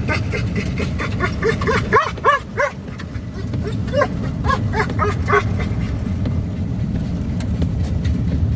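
Steady road noise from the chase vehicle's cabin while driving, with a few short, high yelping calls: three in quick succession about two seconds in, and several more around four to five seconds.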